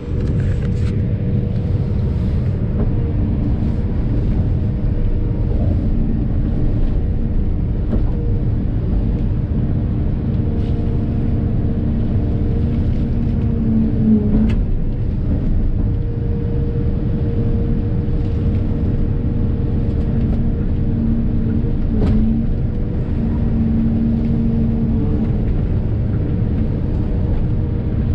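45-ton Volvo crawler excavator working: a steady diesel engine rumble, with a pitched whine that swells and fades as the machine moves.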